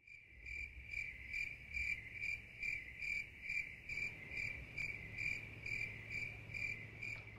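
A cricket chirping in an even, steady rhythm, about two chirps a second.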